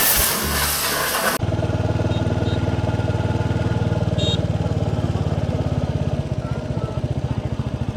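Royal Enfield Hunter 350's single-cylinder engine idling with a steady, fast, even thump, heard after music cuts off abruptly about a second and a half in.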